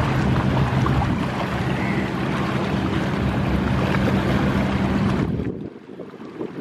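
A river passenger launch's engine hums steadily under a loud rush of wind and water, with wind buffeting the microphone. The sound drops away suddenly about five and a half seconds in.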